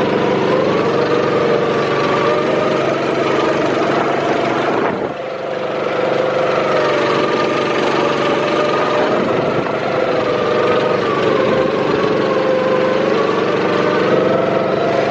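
Small petrol go-kart engine running steadily, its pitch drifting up and down with the throttle, with a brief dip in level about five seconds in.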